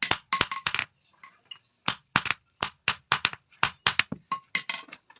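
Hand hammer striking steel on an anvil in quick, even blows, about four a second, each with a short metallic ring. The blows pause for about a second near the start, then resume.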